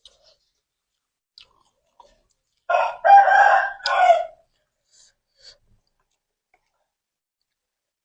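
A rooster crowing once, a call of nearly two seconds in three joined parts, loud against a quiet background, with a few faint small clicks of chewing around it.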